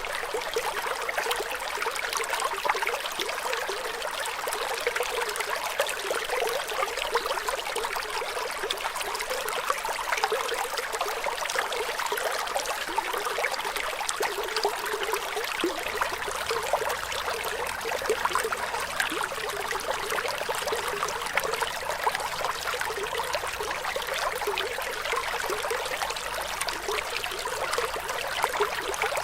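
Running water flowing steadily, a continuous trickle with many small splashes and little low rumble.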